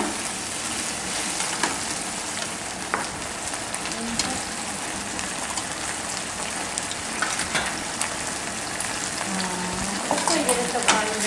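Tofu cubes frying in hot oil in a frying pan: a steady sizzle, with a few short clicks of a metal spoon against the pan and bowl as chopped onion is spooned in.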